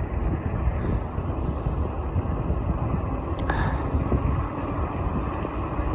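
Wind buffeting the microphone over a steady low rumble from a fat-tire e-bike rolling on a rough road, with a sharp click about three and a half seconds in.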